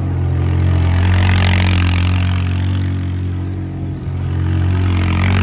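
Yamaha Bruin ATV's engine held at high, steady revs as it spins fast in circles in sand, with a rushing noise that swells and fades a couple of times.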